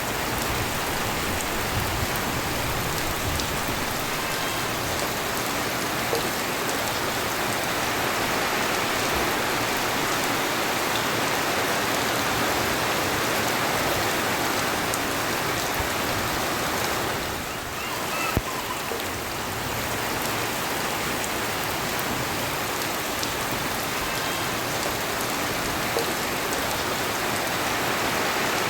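Steady, heavy rain falling and pattering on surfaces. It dips briefly about two-thirds of the way through, and a single click follows.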